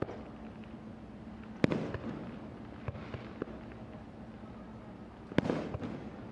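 Aerial fireworks shells bursting over the harbour: two loud booms, about a second and a half in and near the end, each trailed by a rolling echo, with a few smaller pops between them.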